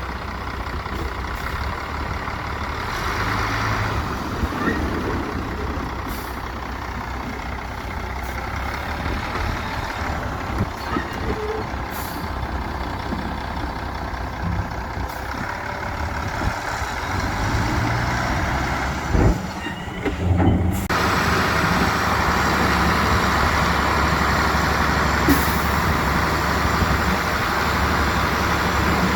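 Heavy diesel engines of construction machinery (dump trucks and a bulldozer) running steadily, with a few short knocks. The sound changes abruptly about two-thirds of the way through and becomes louder and more hissy.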